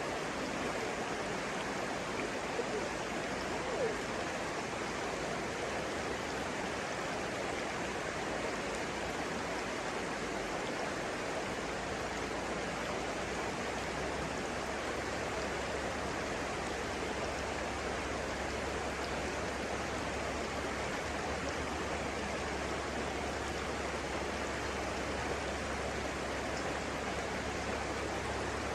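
Steady rush of flowing stream water, with a low hum coming in about halfway through.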